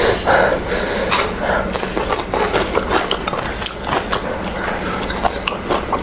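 Close-miked eating: crunchy chewing and mouth noises, made up of many short crackling clicks, with a few light knocks of fingers and chopsticks on the dishes.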